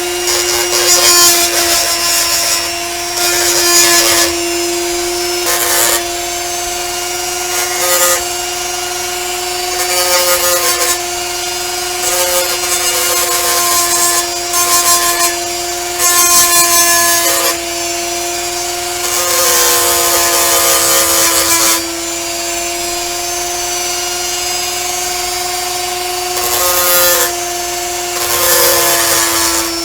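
Handheld rotary tool running at a steady whine while a grinding bit grinds the back of a pewter cast, with louder hissing stretches every second or two as the bit is pressed to the metal.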